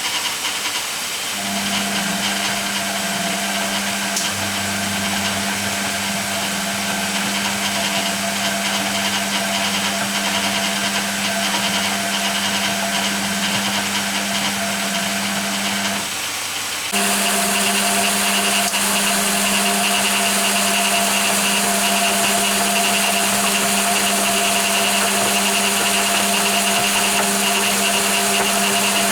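Hoover Keymatic A3112 washing machine running at the start of its first rinse: a steady mechanical hum over a hissing noise. About halfway through it stops briefly, then carries on louder and brighter.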